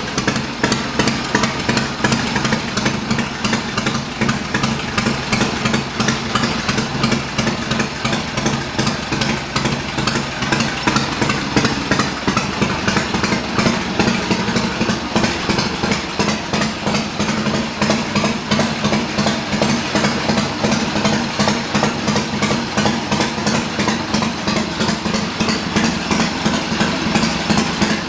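Triumph motorcycle engine idling steadily with a fast, even exhaust beat, still warming up after a cold start.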